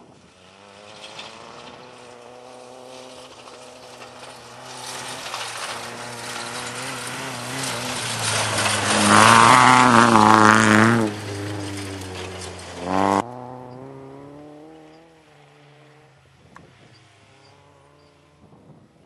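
Rally car engine approaching at speed on a gravel stage, its revs rising and dropping through gear changes and loudest about halfway as it passes close. About two-thirds in the sound cuts off abruptly, leaving a quieter, more distant engine.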